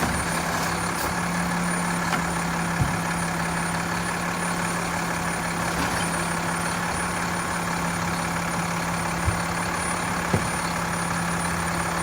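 Mack LEU recycling truck's diesel engine idling steadily, with a few light knocks.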